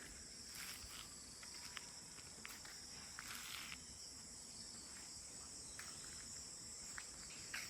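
Steady, high-pitched trilling chorus of crickets, with a few faint scattered clicks.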